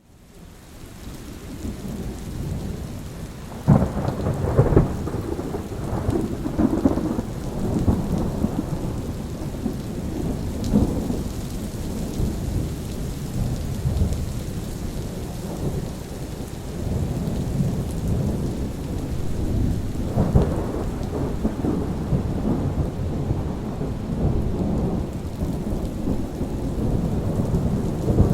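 Steady rain with rolling thunder. The sound fades up from near silence over the first couple of seconds; a thunderclap breaks about four seconds in and rumbles on for several seconds, and another rolls in about twenty seconds in.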